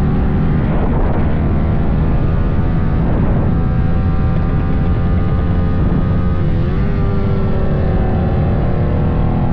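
Motorcycle engine running steadily while riding, with a brief dip and rise in pitch about two-thirds of the way through.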